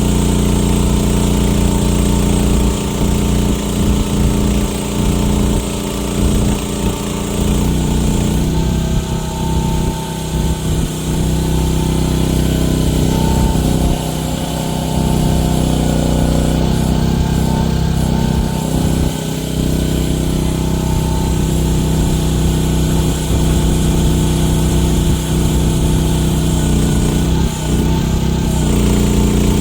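Gasoline engine of a one-ton mini excavator running loud and steady while the machine digs, its note dipping briefly a few times.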